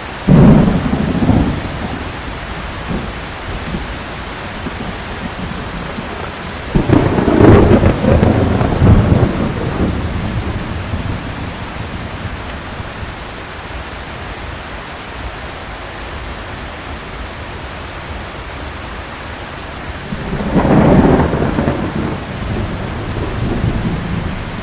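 Heavy rain falling steadily, with three rolls of thunder rumbling over it: one just after the start, a loud one about a third of the way in and another near the end.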